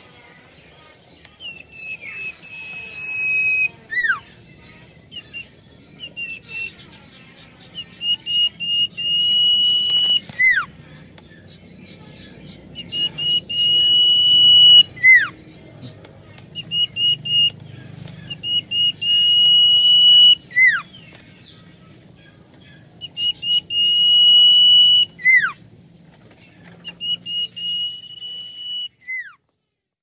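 Common iora singing close up. About every five seconds a run of short stuttering notes leads into one long, level whistle, which ends in a sharp downward-slurred note; six such phrases.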